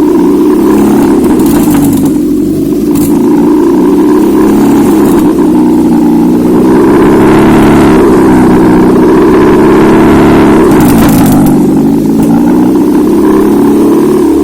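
Z22SE 2.2-litre four-cylinder petrol engine running on a test stand: it idles, is revved up about halfway through and held at higher speed for a few seconds, then settles back to idle.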